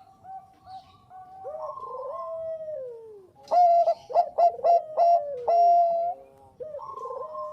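Bangkok-strain zebra dove (perkutut) cooing: a few soft short coos, a long note sliding down in pitch, then about a second and a half later a loud run of quick staccato coos that ends in a held note falling away, with another falling coo near the end.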